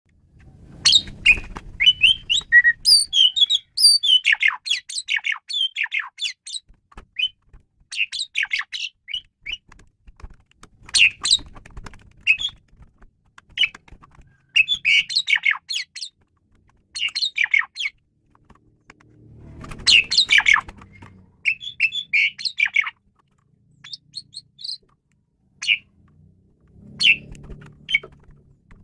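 Asian pied starling (jalak suren) singing: phrases of varied chirps, squawks and whistles a few seconds long, broken by short pauses, with a faint low rumble underneath now and then.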